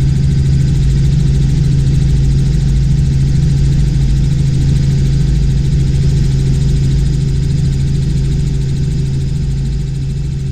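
Robinson R44 Clipper II helicopter in cruise flight, heard from inside the cabin: a loud, steady drone of its Lycoming six-cylinder engine and rotors with a strong low hum, easing slightly near the end.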